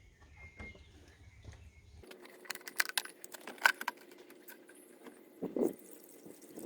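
Scattered light clicks, clinks and knocks of objects being handled over a faint steady hum, starting after a near-quiet first two seconds.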